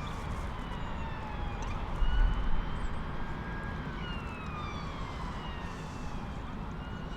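Emergency-vehicle siren wailing in long, slow, mostly falling sweeps, over wind rumbling on the microphone, with a stronger gust about two seconds in.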